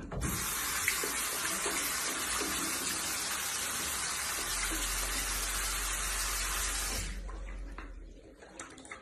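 Water running steadily from a tap, stopping about seven seconds in, followed by a few faint clicks.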